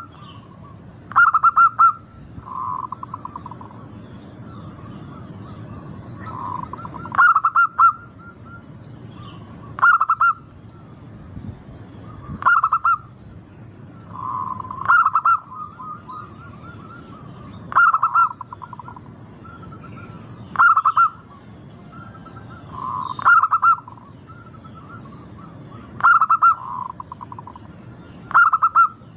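Zebra dove (local perkutut) cooing: a short, bright staccato coo repeated about every two to three seconds, some with softer, lower coos close by.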